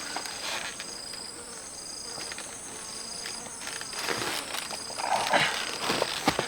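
Insects, cricket-like, shrilling in steady high continuous tones with a short chirp repeating about once a second. Near the end, rustling and crunching come up over them.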